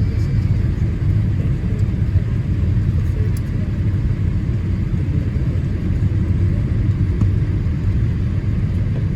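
Steady low rumble of engine and airflow noise inside the cabin of a Boeing 787-8 airliner on approach.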